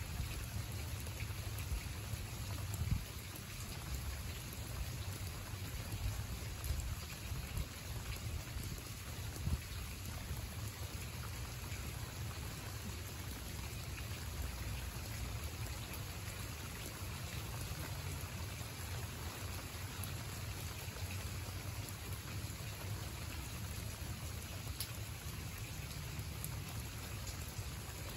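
Steady rain falling on a garden bed and pavement, with scattered sharp drop ticks close by. A low rumble runs underneath, swelling now and then in the first ten seconds.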